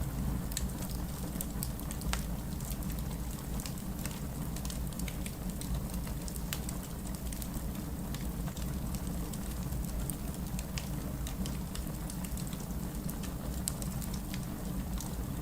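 Heavy rain falling steadily, with a wood fire crackling: many small sharp pops and snaps scattered through the even rain noise.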